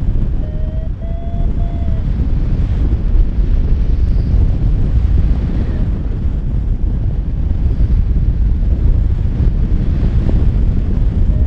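Strong wind buffeting the microphone in flight under a paraglider, a heavy steady rumble of wind noise. A faint thin tone rises slightly in pitch about half a second in and fades by two seconds.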